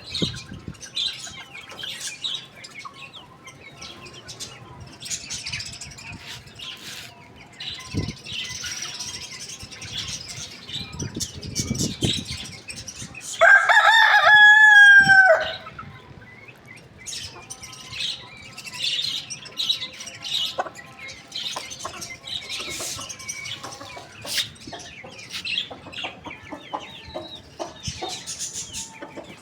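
A rooster crows once, loud, for about two seconds near the middle, the call dropping in pitch at the end. Around it there is clucking and the short, high chirping of small birds.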